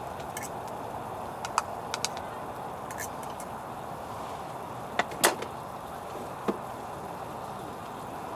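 Campfire burning with a steady hiss and scattered sharp pops and cracks from the wood, a close pair of louder pops about five seconds in.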